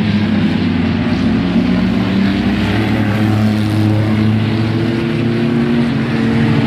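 A pack of mini truck race engines running at racing speed around a short oval track, several engine notes overlapping and rising and falling as the trucks pass.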